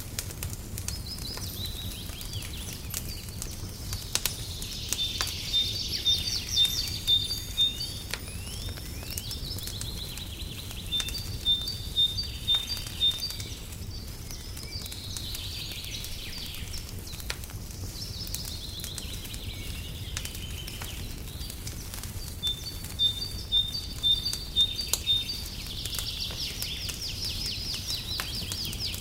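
A songbird singing in repeated phrases of quick, high, evenly spaced notes, with falling sweeps between the phrases. Under it runs a steady low rumble with scattered faint clicks from a crackling fire.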